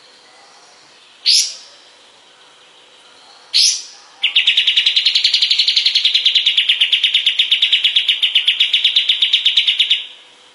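Kapas tembak songbird singing: two short rising whistled notes, then a fast, even trill of about eight to nine notes a second that runs for around six seconds and stops shortly before the end.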